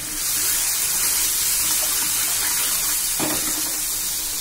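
Spiced onion-tomato masala sizzling loudly in hot oil in a pan as it is stirred, a steady hiss that swells about a quarter second in and eases near the end, with a single knock a little after three seconds.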